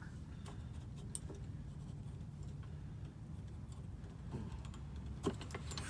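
A few faint, scattered clicks and taps of tools and metal parts being handled, over a low steady hum.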